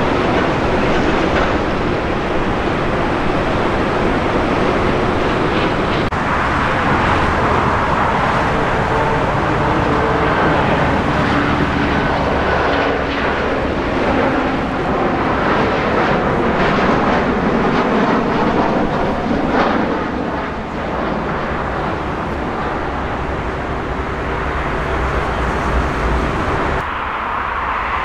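Passenger airliner engines running loud and steady, with a few engine tones that slowly shift in pitch. The sound changes abruptly about six seconds in and again near the end.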